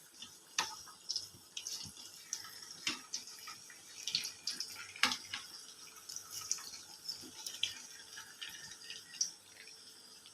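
Water splashing and dripping in a kitchen sink, in short irregular splashes and light clicks.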